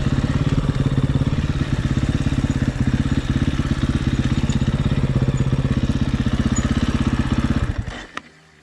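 Dirt bike engine idling steadily with a rapid, even pulse, then stopping abruptly near the end.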